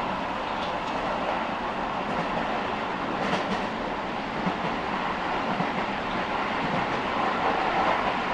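Keio 9000 series electric train running between stations, heard from inside the car: a steady rumble of wheels on rail with scattered clicks from the track, growing a little louder near the end.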